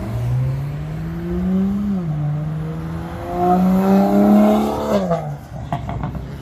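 A car accelerating hard away. The engine pitch climbs, drops at a gear change about two seconds in, climbs again louder, and drops once more at about five seconds before the sound fades.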